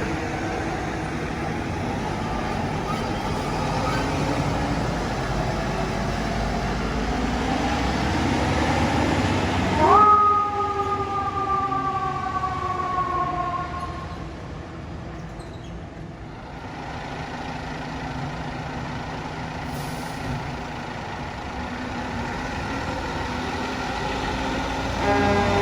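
Fire truck engine and traffic noise, the engine pitch rising as it pulls away. About ten seconds in, a Federal Q2B mechanical siren is spun up quickly and then coasts down in pitch over about four seconds. The siren winds up sharply again at the very end.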